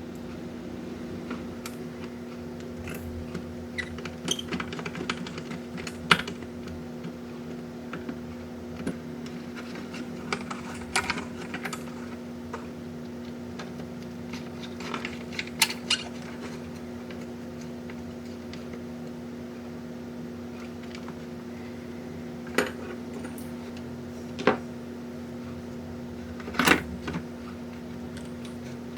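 Scattered sharp clicks and light clatter of small parts and tools being handled on a workbench, over a steady low hum.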